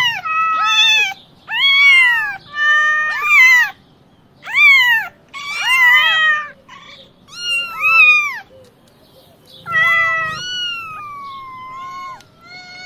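Kittens meowing over and over: about ten high-pitched cries that rise and fall, several coming close together or overlapping, with a longer drawn-out falling meow near the end.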